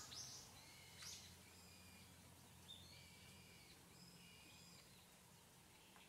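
Faint calls of small birds over quiet outdoor background noise: two short sharp chirps, one at the start and one about a second in, then a few short whistled notes.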